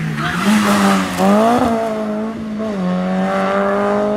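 Peugeot 106 rally car engine revving hard through a slalom chicane. The pitch climbs steeply, drops sharply about a second and a half in, dips once more, then rises steadily again as the car accelerates away.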